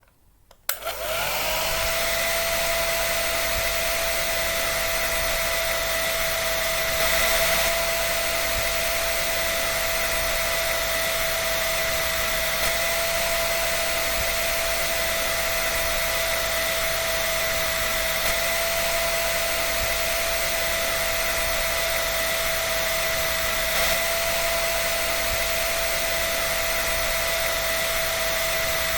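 Hair dryer switched on with a click just under a second in. Its motor spins up within a moment to a steady whine over a rush of air, then runs evenly.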